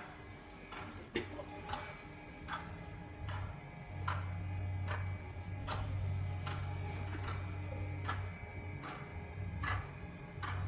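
Regular mechanical ticking, one sharp click about every 0.8 s, over a low steady hum that cuts in about four seconds in and drops out again near the end.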